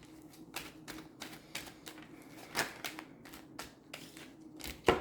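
Tarot cards being shuffled by hand: a string of quick, irregular clicks and flicks, with one sharp snap about two and a half seconds in and a louder one near the end.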